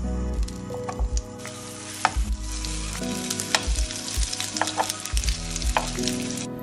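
Butter sizzling in a frying pan as egg-dipped rolled bread fingers fry, with metal tongs clicking now and then as they are turned. The sizzle cuts off suddenly near the end.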